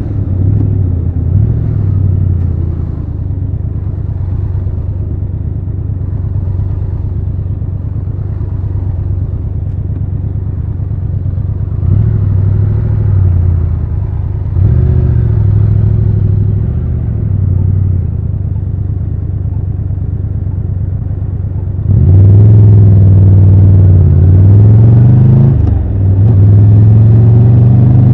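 Triumph Tiger 1200 Rally Pro's three-cylinder engine running at low revs with a few small blips of throttle, then opening up loudly near the end, its pitch rising as it accelerates, with a brief dip at a gear change before climbing again.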